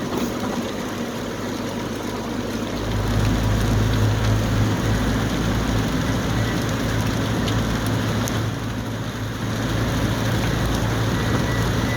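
Car driving in heavy rain, heard from inside the cabin: rain and wet-road noise over the low rumble of the engine and tyres. The rumble swells about three seconds in, eases briefly around nine seconds, then picks up again.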